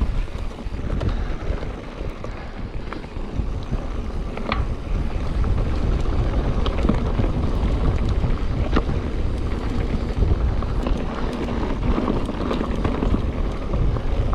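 Wind buffeting the microphone over the rumble of a mountain bike rolling down a dirt trail, with scattered sharp clicks and rattles.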